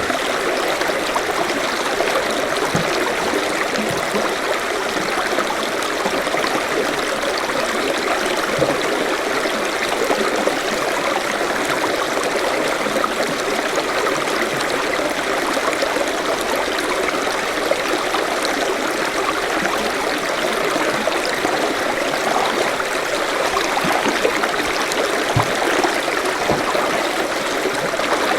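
Forest stream flowing over rocks: a steady, continuous rush of water with gurgling and trickling.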